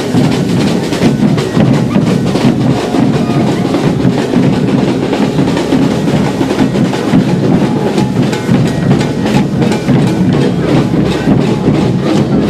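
Procession drums playing loudly: bass and snare drums beating in a steady stream of hits.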